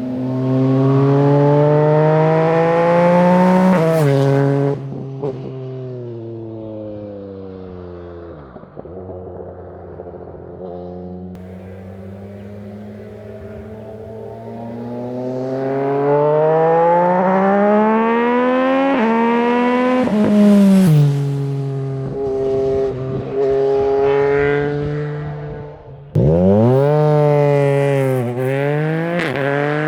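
Yamaha MT-09's 850cc three-cylinder engine through a Mivv Suono exhaust, accelerating hard with its pitch climbing, then dropping sharply as the bike passes by and fading. The bike approaches and accelerates past a second time, and near the end it pulls hard through quick upshifts, each a short dip in pitch before it climbs again.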